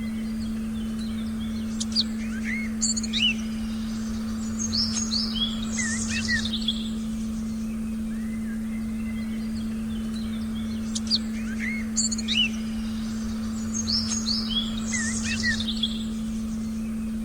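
Forest birdsong, bursts of chirps and whistled calls, over a steady low hum tone. The same run of bird calls comes round again about nine seconds later, as in a looped recording.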